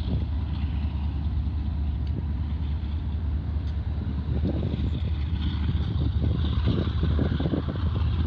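Diesel locomotives of a BNSF container train running with a steady low rumble as the train gets under way.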